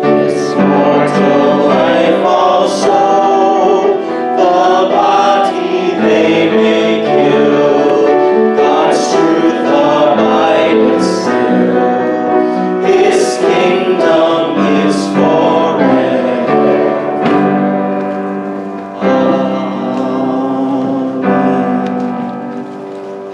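Church choir singing a hymn with piano accompaniment, dying away near the end.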